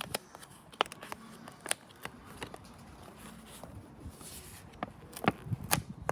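Plastic wrapping being pulled off a steelbook case and handled, crinkling, with scattered sharp clicks and taps from handling the case.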